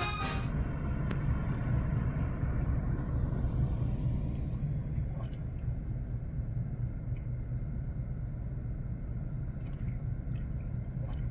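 A steady low rumble, with a few faint clicks scattered through it; brass music dies away at the very start.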